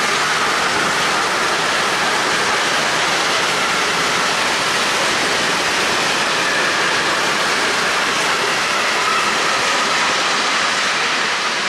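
Freight train of covered hopper wagons rolling steadily past: a continuous rushing noise of wheels on the rails.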